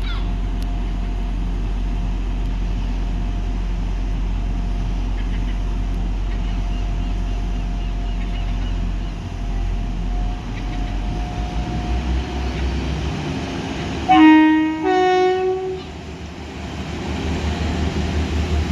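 Diesel train running with a steady low rumble. About fourteen seconds in, its two-tone horn sounds: a short lower note, then a higher one.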